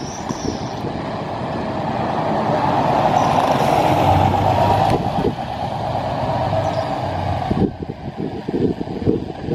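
A large vehicle passing close by: a rush of engine and road noise that builds to a peak about four seconds in and cuts off suddenly near eight seconds. Wind buffets the microphone throughout.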